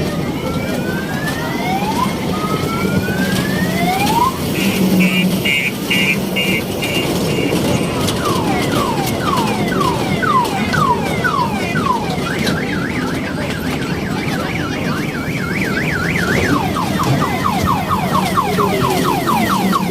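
An electronic siren cycles through several alarm tones: slow rising wails, a burst of rapid beeps, repeated falling sweeps, then a fast warbling yelp, like a multi-tone car alarm. A steady low hum runs underneath.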